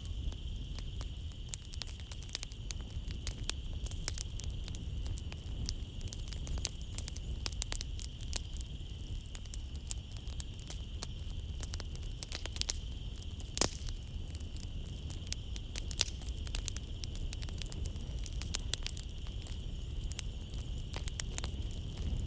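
Wood fire crackling in a fireplace, with frequent small pops and two louder snaps around the middle, over a low rumble from the flames. A steady high chirring of night insects runs underneath.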